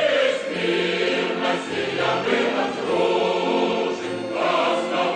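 Background choral music: a choir singing slow, held notes.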